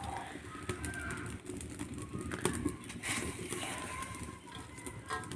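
Birds calling, with scattered light clicks.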